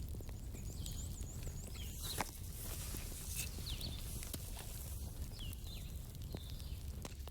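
Campfire burning with irregular crackles and sharp pops over a low rumble, with a few short, high whistling chirps scattered through it.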